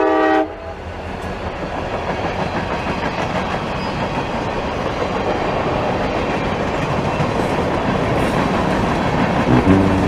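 Train running on rails, a steady rumbling clatter that grows louder as it approaches. A short steady-toned chord, like a horn, cuts off about half a second in.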